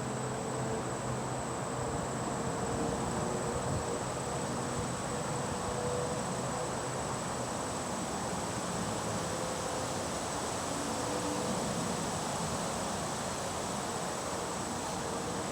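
Outdoor ambience of insects: a constant high-pitched drone over a steady hiss, with faint buzzing that comes and goes.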